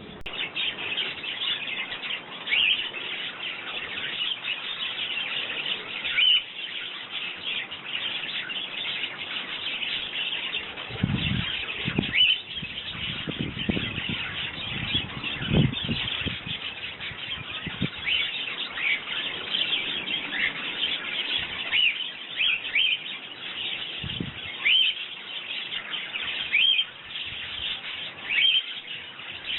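House sparrows chirping continuously in a busy chatter of many short, repeated chirps. A few low rumbles come in the middle.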